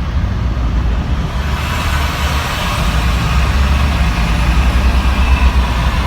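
Loud engine noise of a moving vehicle: a steady low rumble under a rushing hiss that builds over the first couple of seconds, swells, then eases near the end.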